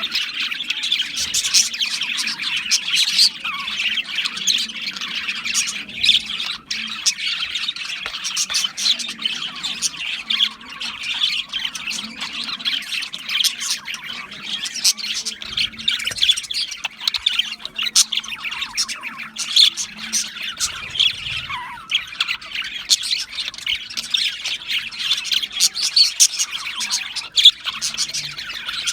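A flock of budgerigars chirping and chattering, a dense continuous stream of short, overlapping calls with occasional squawks.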